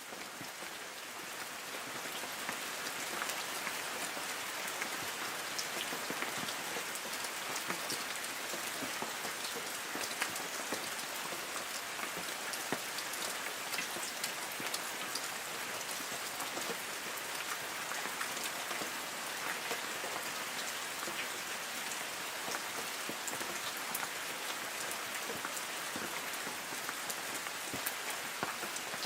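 Light rain falling on forest trees: a steady hiss of rain with many separate drops ticking on leaves, fading in over the first couple of seconds.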